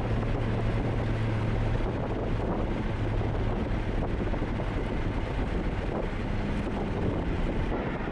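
Car driving along: a steady engine hum with road and wind noise.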